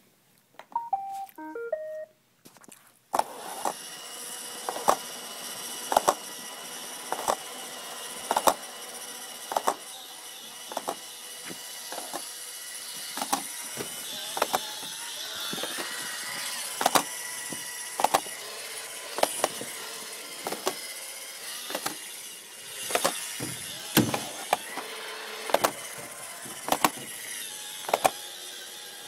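Roomba robot vacuum gives a few short beeps, then runs with a steady motor whir and a sharp click about once a second. The clicking comes from a brush that is not rotating freely, the sign that the brush cage needs cleaning.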